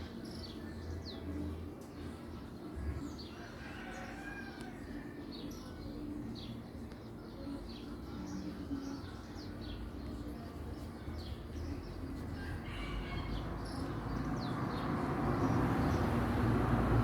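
Mixed birdsong: many short, high falling chirps from small birds repeating throughout, with some lower warbled phrases and low cooing typical of a ground dove. A rush of noise swells over the last few seconds.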